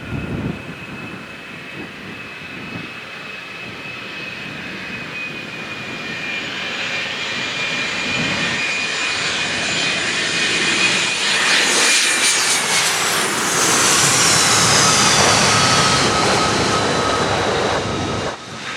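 Fokker 100 jet airliner on very low final approach, its Rolls-Royce Tay turbofans whining and growing steadily louder as it nears. It passes low overhead about two thirds of the way in, the whine's pitch falling as it goes by, then the sound drops suddenly near the end.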